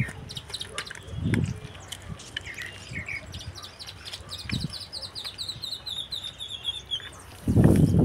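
A small songbird singing: a few short chirps, then a long trill of quick repeated notes that slowly falls in pitch. A low rumble comes about a second in and a louder one near the end.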